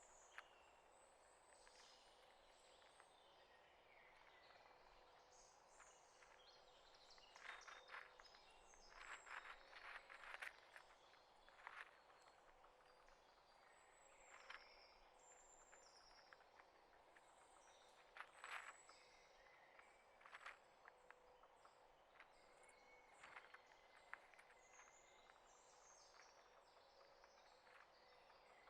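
Small birds chirping and twittering faintly over a steady outdoor hiss, with a few short scratchy rustles in the middle.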